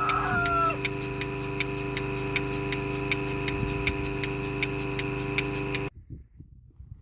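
A small motor running steadily, with a sharp regular ticking about two or three times a second over it; it cuts off suddenly about six seconds in.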